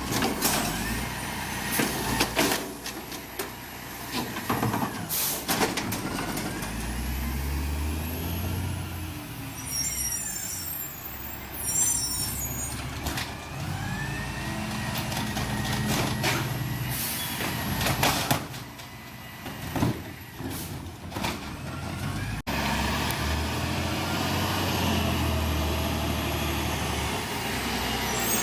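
Recycling truck at work: its engine revs up and down several times, with sharp air-brake hisses, clanks and rising-and-falling whines in between.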